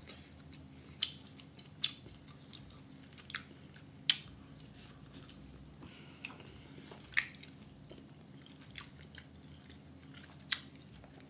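A person chewing rotisserie chicken, with about eight short, irregular wet smacks and clicks of the mouth. Under them runs a faint, steady low hum.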